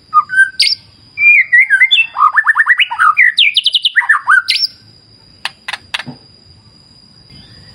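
White-rumped shama (murai batu) singing a fast, varied run of loud whistles, rapid trills and chirps that stops about two-thirds of the way through. A few sharp clicks follow, over a thin steady high tone and a faint low rush of river water.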